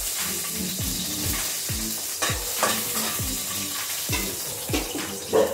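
Food sizzling in a hot wok as a metal spatula stirs it, a steady frying hiss, with a regular low thudding about twice a second.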